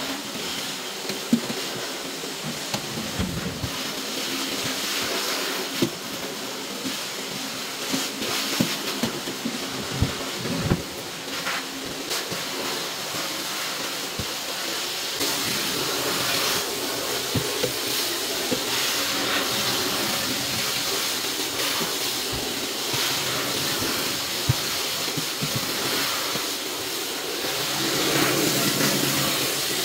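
Steady hiss of water running from a tap, with scattered clicks and knocks of items being handled under it.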